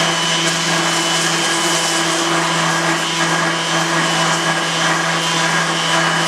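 Electric power sander running steadily, sanding down hardened epoxy squeeze-out at the joints of a 3D-printed plastic sword; a constant motor hum with a hiss of abrasion over it.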